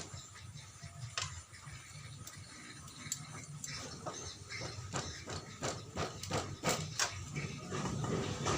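Irregular clicks and clinks of hand tools and metal parts as the Honda Supra 125's engine is worked on, with a faint low hum underneath.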